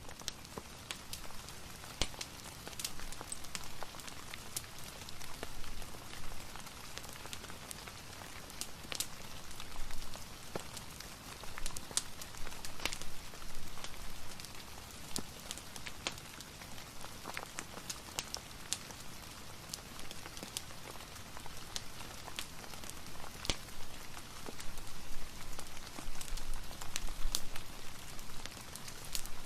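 Steady rain falling, mixed with a fireplace crackling: a continuous hiss of rain with many scattered sharp ticks and crackles, growing a little louder near the end.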